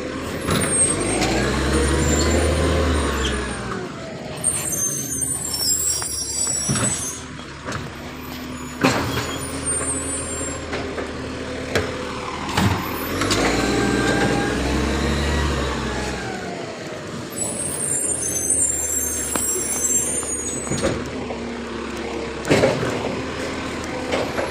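Garbage truck emptying bins, two cycles about twelve seconds apart: the engine revs up and settles as the lift works, followed each time by a high squealing hiss, with knocks in between.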